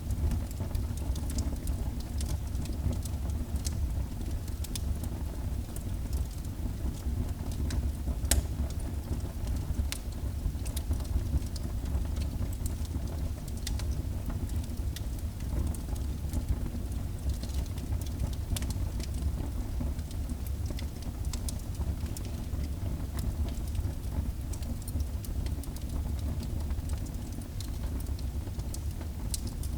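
Wood fire burning in a fireplace: a steady low rumble from the flames with scattered sharp crackles and pops, one louder pop about eight seconds in.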